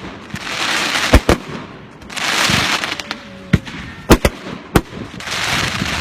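Fireworks going off: three long rushing hisses about two seconds apart, with sharp single bangs between them, loudest a little past a second in and again around four seconds in.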